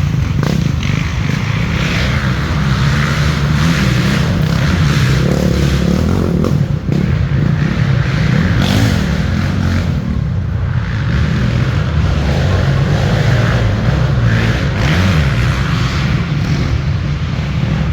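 Several dirt bike engines revving hard as riders race past, the sound swelling and fading as bikes come through, over a steady low rumble.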